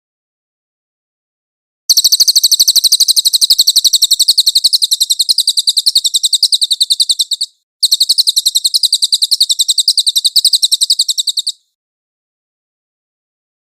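Songbird recording used as a masteran training track: two long bouts of rapid, evenly repeated high-pitched chirps with a brief break between them, starting about two seconds in and stopping a couple of seconds before the end, with dead silence around them.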